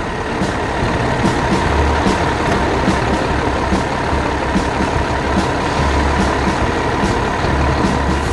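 Heavy truck engine running steadily, a constant whine over a low rumble.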